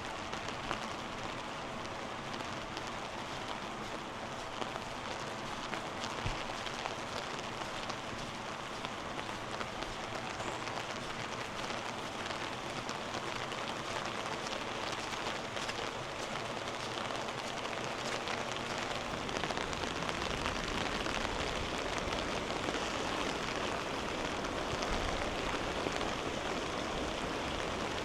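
Steady rush of fast-flowing floodwater from a swollen river, growing a little louder and fuller about two-thirds of the way through.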